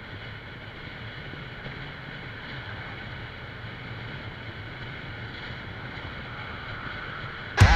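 Steady wind rush with a low engine drone, as from a Vespa S125 scooter being ridden. Guitar music cuts in loudly near the end.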